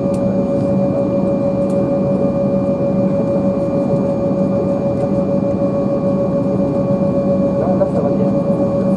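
Steady cabin noise inside an Embraer 190 jet airliner before takeoff: a constant drone with an unchanging mid-pitched whine running through it.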